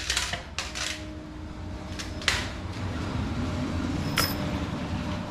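A few sharp clicks and knocks, the loudest about two seconds in, and a short high metallic ping about four seconds in, over a steady low rumble.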